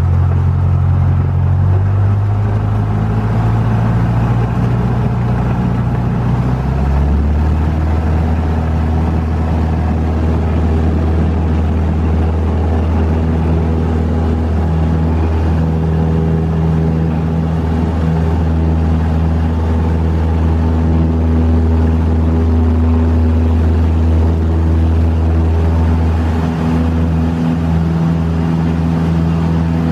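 Cessna 172S's 160 hp Lycoming IO-360 four-cylinder engine and propeller running at high takeoff power. The engine note changes about seven seconds in, then holds steady.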